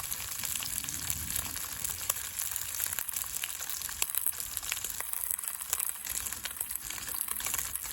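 Marbled Japanese sirloin steak sizzling as it sears over a campfire, its rendering fat hissing steadily with many small crackles.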